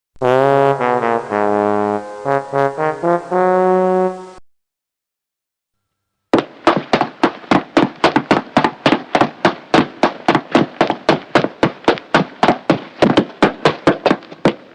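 A short brass sound-effect jingle of several notes, with a quick run of short notes and a longer held last note. After a pause of about two seconds comes a fast, even series of sharp taps, about four or five a second.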